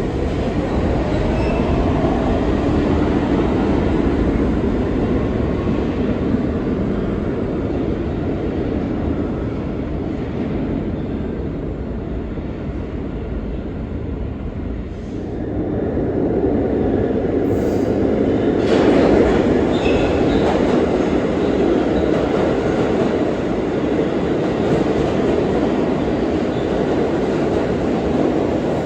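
New York City Subway A train running through the station: a loud, continuous rumble of wheels on the rails that eases off slightly around the middle and then swells again, with a few sharp metallic clanks about two-thirds of the way in.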